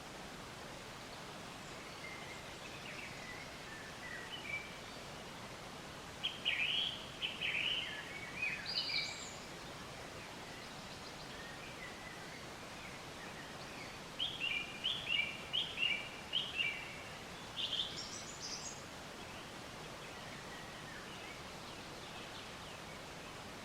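Birds chirping and singing in short high phrases over a steady outdoor hiss, with two busier stretches of song, one of them a run of four or five quickly repeated notes.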